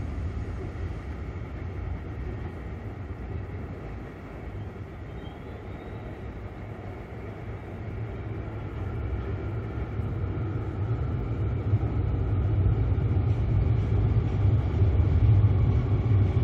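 Train running across a steel truss railway bridge: a steady low rumble that grows louder in the second half.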